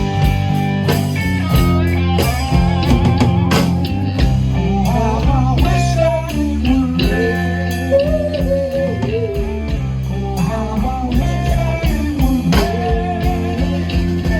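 Live band playing an instrumental break in a slow soul ballad: an electric guitar leads with bending notes over bass, chords and a steady drum kit.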